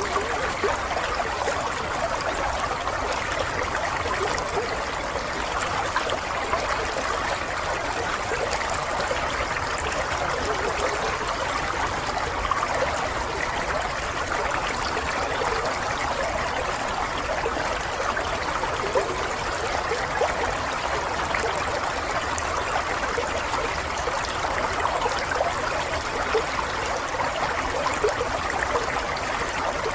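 Running water, a steady stream-like flow with fine trickling and babbling detail and no change in level.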